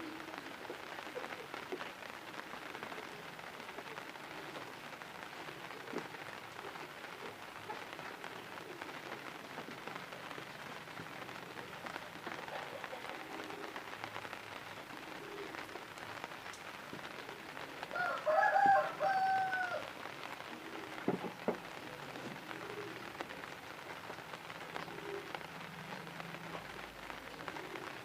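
Steady patter of rain on a surface, with a short two-part bird call about two-thirds of the way through and a couple of sharp knocks soon after.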